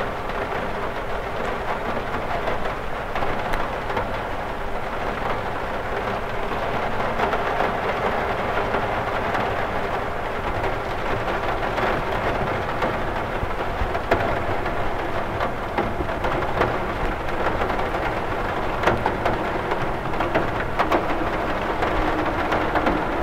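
Steady rain falling on a window, a constant hiss of rain with many small, separate drop ticks against the glass.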